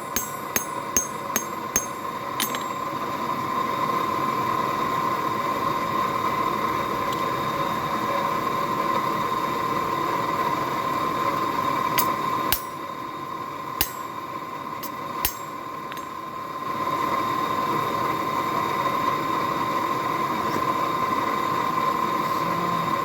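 Hammer blows ringing on the anvil as mild steel is forged, about three strikes a second, stopping after a couple of seconds. A steady rushing roar with a constant hum follows; it swells a few seconds in and dips for a while midway, when a few sharp metallic clinks sound.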